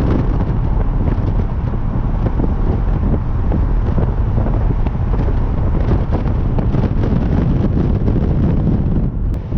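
The 410 cubic inch Magnum stroker V8 of a 1996 Dodge Ram 1500 running under way through its new exhaust, with heavy wind buffeting the microphone. There is a brief drop in level near the end.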